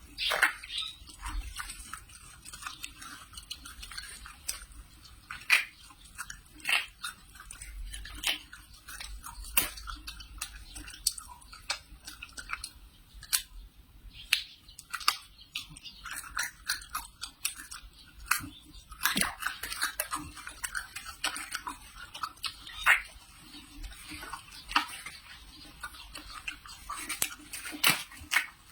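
A person biting into and chewing pear, with many irregular sharp crunches.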